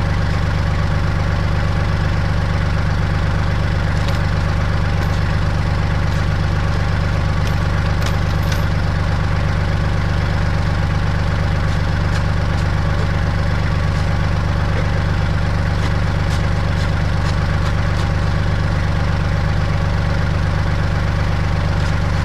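Kubota L3800 tractor's diesel engine idling steadily, with a few light clicks over it.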